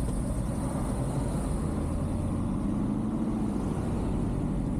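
Motorcycle engine running at low speed in traffic, a steady low rumble.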